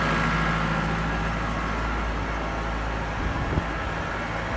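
Tractor engine running steadily, a low even hum, with a hiss of wind over it.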